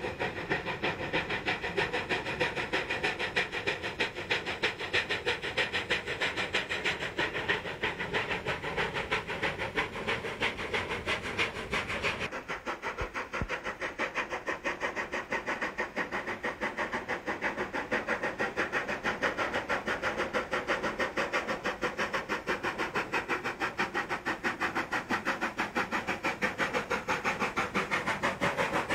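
Narrow-gauge steam locomotive working, its exhaust chuffing in a fast, steady rhythm. About twelve seconds in the sound changes abruptly and loses much of its low rumble.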